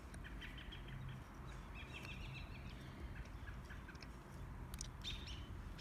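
Quiet outdoor background with faint bird chirps: a short one near the start and a longer warbling run around two seconds in, with a few faint clicks near the end.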